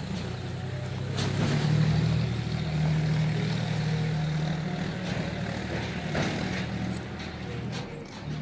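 An engine running steadily with a low hum, loudest about two seconds in, with a few knocks.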